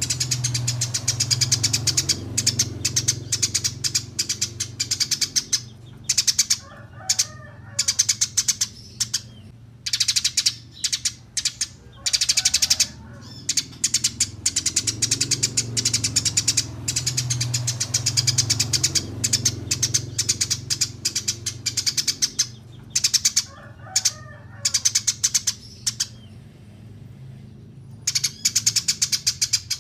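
Eurasian tree sparrow chirping in fast runs of sharp, high chirps, broken every few seconds by short pauses, over a low steady hum.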